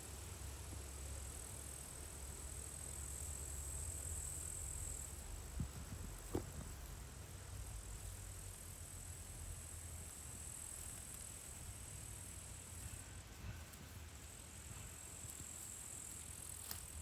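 Quiet outdoor evening ambience: insects trilling steadily and high, over a low rumble, with two faint clicks about six seconds in.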